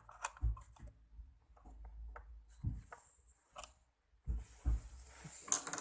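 Light handling sounds on a mini sewing machine: scattered small clicks and taps, a few low thumps and brief rubbing, as the bobbin thread is fished out from under the needle plate.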